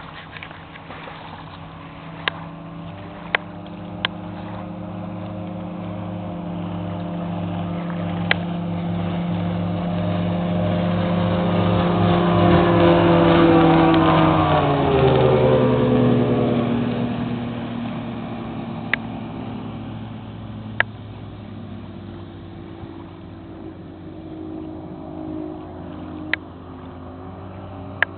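Mercury 250 Pro XB V6 two-stroke outboard on a bass boat making a high-speed pass: the engine note grows louder to a peak about halfway, drops in pitch as the boat goes by, then fades. A few sharp clicks are heard along the way.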